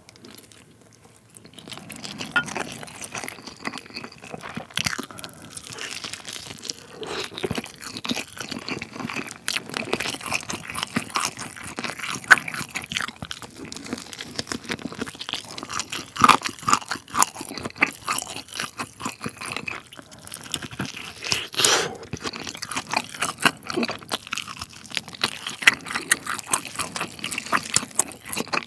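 Close-up mouth sounds of a person eating a spicy sauced chicken drumstick with rice: continuous wet chewing with frequent sharp bite clicks and crunches, starting about a second and a half in.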